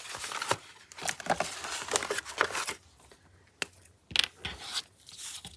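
Craft supplies being handled on a work table: a run of short rustles and sharp clicks, with a quieter stretch in the middle.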